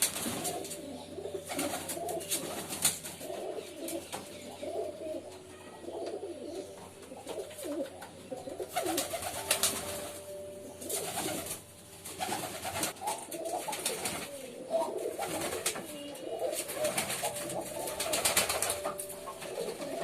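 Several domestic pigeons cooing together, with low calls overlapping one another, and short scattered rustles or clicks among them.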